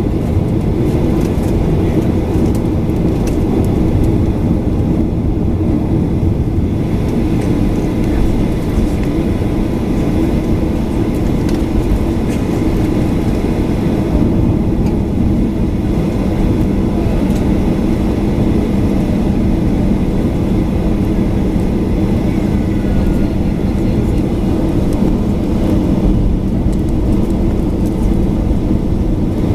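Boeing 737-800's CFM56-7B engines running, heard inside the passenger cabin as a steady, even hum with a few held low tones.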